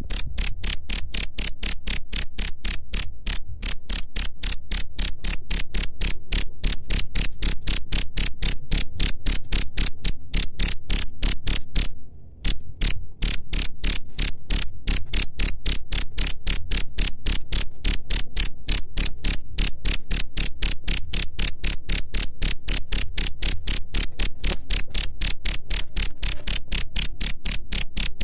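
Cricket chirping: a loud, steady train of high-pitched chirps at about five a second, with one brief break about twelve seconds in.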